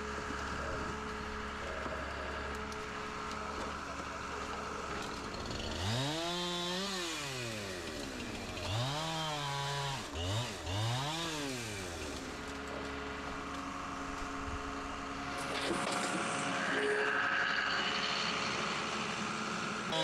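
Two-stroke chainsaw revved three times, about six, nine and eleven seconds in, each rev rising in pitch and falling back to idle. A steady engine hum runs underneath.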